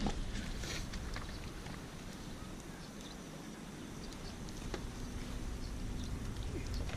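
Steady outdoor noise with wind buffeting the microphone, a low rumble, and faint scattered chirps and ticks.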